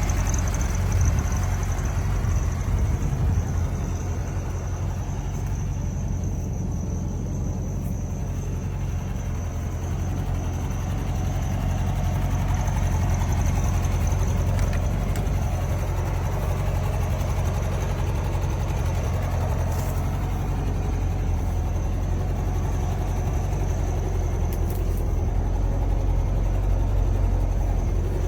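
1973 Volkswagen Super Beetle's air-cooled flat-four engine idling steadily.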